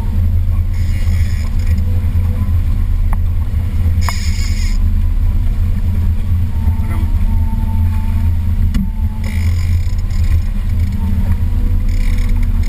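Boat motor running steadily with a constant low drone, with short spells of hiss breaking in a few times.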